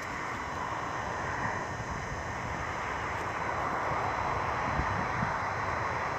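Steady background road traffic noise, a continuous rumble and hiss of passing vehicles, slowly growing a little louder.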